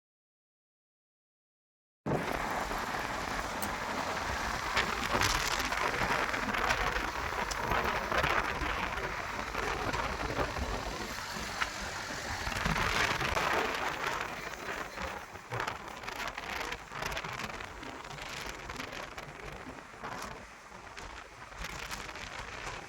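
About two seconds of silence, then the steady hiss and crackle of a car driving up a winding mountain road.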